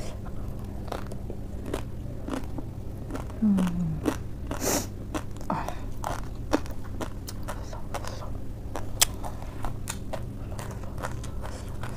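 Close-up crunching and chewing of a lettuce leaf wrapped around crushed Wai Wai instant noodles, with many short crisp crackles. A short hum comes about three and a half seconds in, and a brief hiss just after.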